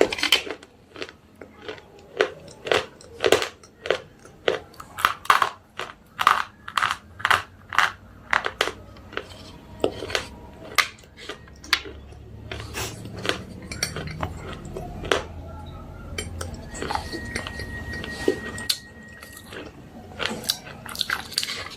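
Slate pencils being bitten and chewed close to the microphone: a quick run of sharp, brittle crunches, about two a second, which thin out to scattered crunches after about twelve seconds.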